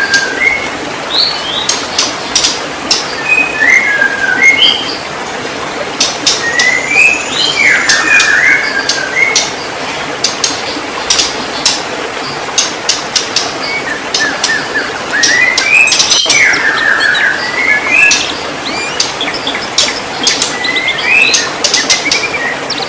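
White-rumped shama singing: phrases of quick gliding whistled notes mixed with sharp clicking notes, coming in bursts with short pauses between them, over a steady background hiss.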